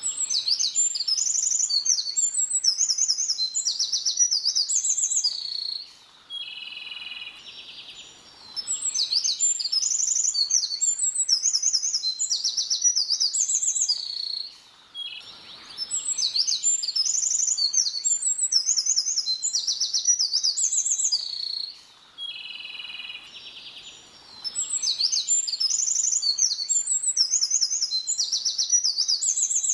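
A small songbird singing: four long bouts of fast, varied high-pitched notes, each about five to six seconds, with short pauses between them in which quieter, lower notes carry on.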